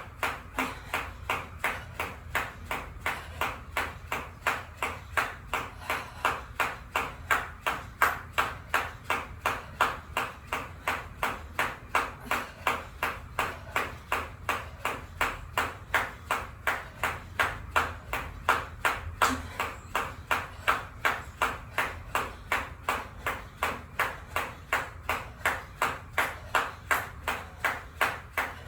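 A jump rope hitting the floor in a steady rhythm, about two to three slaps a second, during continuous skipping.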